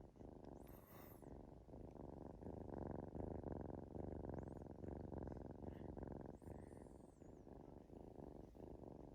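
Singapura kitten purring softly and steadily while settling into sleep.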